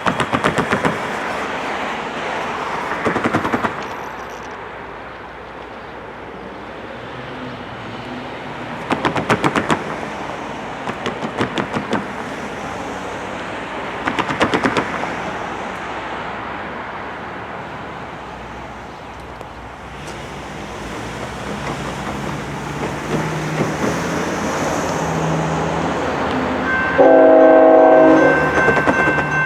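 An approaching diesel freight train rumbles, with short bursts of rapid clicking from the rails. The GE ET44AC locomotive's diesel engine grows louder toward the end. About three seconds before the end, its air horn sounds loudly and keeps going.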